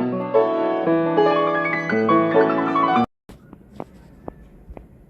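Solo piano music with held chords that cuts off abruptly about three seconds in, followed by a few faint clicks.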